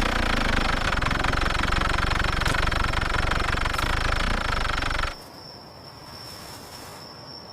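An engine running steadily with a fast, even pulse, cutting off abruptly about five seconds in and leaving a quieter hum with a faint steady high tone.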